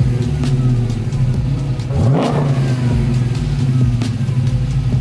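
Supercharged LS V8 in a 1968 Pontiac GTO idling through an exhaust fitted with high-flow catalytic converters, with one quick throttle blip about two seconds in.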